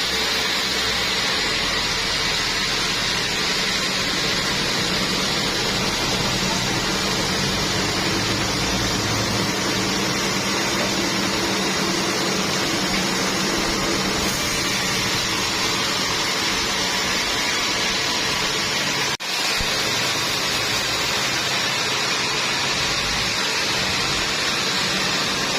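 Steady, loud machine noise: an even hiss with a faint low hum, cut off for a moment about three quarters of the way through.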